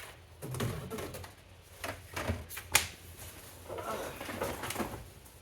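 Plastic vacuum parts being handled: scattered knocks and rustling, with one sharp click a bit under three seconds in.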